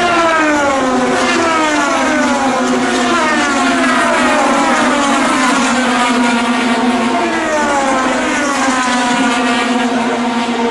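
IndyCar race cars running at speed, their 2.2-litre twin-turbo V6 engines passing in close succession. Several engine notes fall in pitch one after another over a steady low drone.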